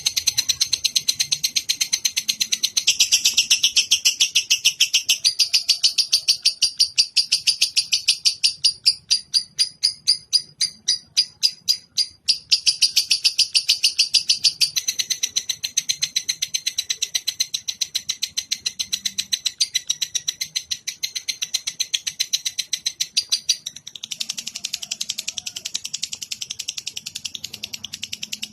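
Recorded songbird song played as a masteran (tutor track): a long, rapid run of high repeated chipping notes, many to the second. Around the middle it slows to separate notes, and it changes pattern a few times.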